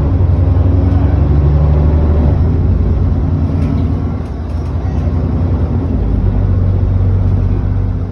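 ADL Enviro400 double-decker bus's diesel engine and drivetrain heard from on board, running steadily under way. Its note shifts about two and a half seconds in and again about six seconds in.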